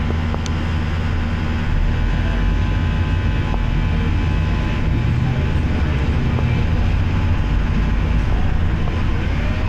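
Volvo B9TL double-decker bus running, with a loud low buzz that grows stronger about two seconds in and then holds steady. The buzz is an on-and-off noise of unknown cause.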